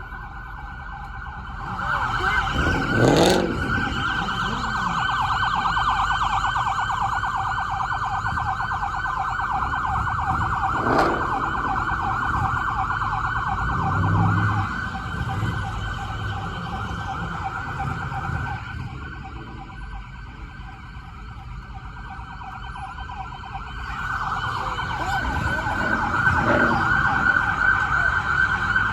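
Police siren sounding with a fast warble. It fades out for a few seconds past the middle and starts again near the end, over the low rumble of engines, with a few brief sharp sounds.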